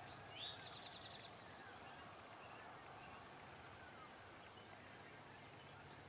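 Faint outdoor birdsong: one short call about half a second in, a quick upward sweep running into a fast, high trill, with fainter scattered bird chirps behind it.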